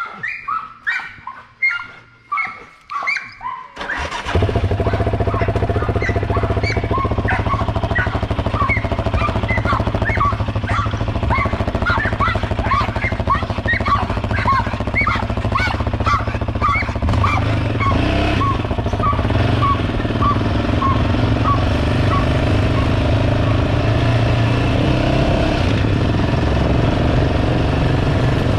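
A dog whimpering and yipping in short repeated cries. About four seconds in, a vehicle engine sound starts suddenly and runs steadily at a loud level, with a series of short high chirps over it for much of the time.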